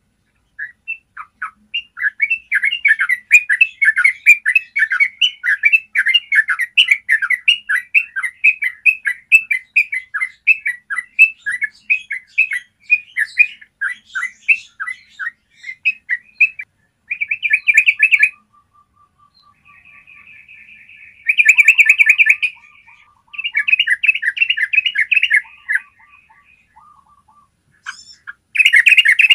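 Yellow-vented bulbul singing a long, unbroken run of rapid chirping notes for about sixteen seconds, then breaking into shorter bursts of fast chatter with gaps between them.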